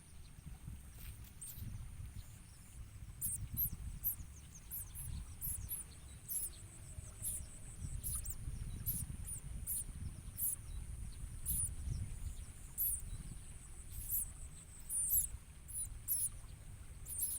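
Prinias (ciblek koya) calling around the nest: short, thin, very high chirps repeated irregularly, about one or two a second. A steady high-pitched drone and a low rumble run underneath.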